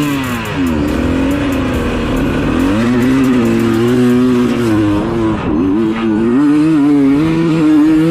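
Motocross dirt bike engine revving up and down several times, then holding a steadier pitch near the end.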